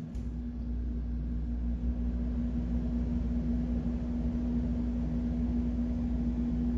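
A steady machine hum with a low rumble comes on abruptly with a click at the start and holds at one even pitch.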